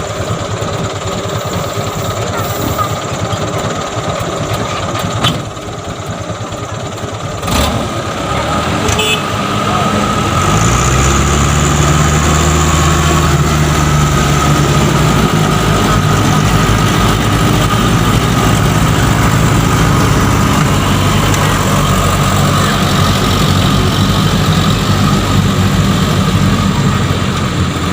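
Truck engine running with a couple of sharp knocks, then revving up about ten seconds in and held at high revs, the sound of a loaded palm-oil truck trying to drive out of deep mud.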